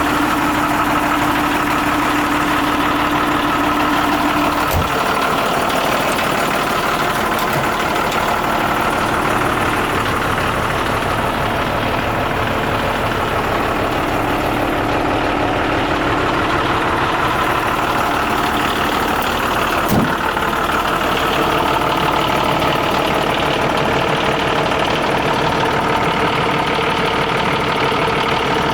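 Renault Midliner M210 truck's diesel engine idling steadily, with a couple of short knocks, one about five seconds in and one about twenty seconds in.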